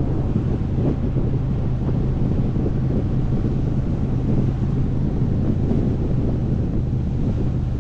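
Motorcycle engine running at a steady pitch while cruising, with heavy wind rush on the microphone.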